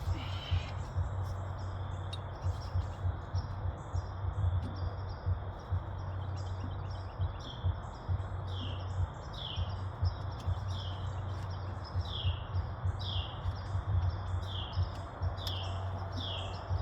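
A bird calling over and over with short, falling chirps, about one or two a second, steadiest in the second half, over a steady low hum and scattered faint clicks.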